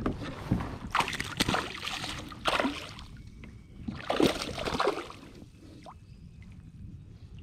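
Water sloshing and splashing around a kayak in several irregular bursts over the first five seconds, then settling to a quieter wash.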